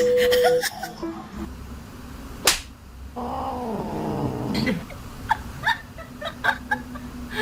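A cat's drawn-out meow, falling in pitch, about three seconds in, after a single sharp smack; a few light clicks follow.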